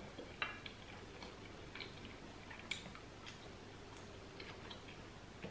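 A person chewing a mouthful of kao lengmian, a grilled egg-coated noodle sheet, heard as faint, irregular soft clicks from the mouth.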